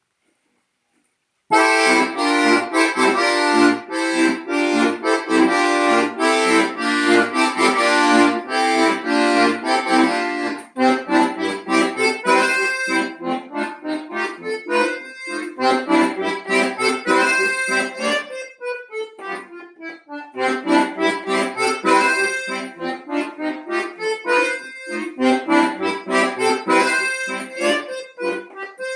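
Solo accordion playing a lively piece. It comes in about a second and a half in with loud full chords, turns lighter about ten seconds in, and has a falling run a little before the twenty-second mark before the fuller chords return.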